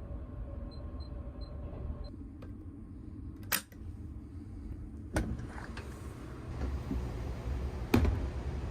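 Low, steady rumble of a train running, with three sharp clicks, the loudest near the end, and a few faint short high beeps in the first two seconds.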